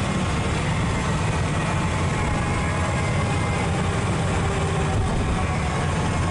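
Cessna 172's piston engine and propeller droning steadily.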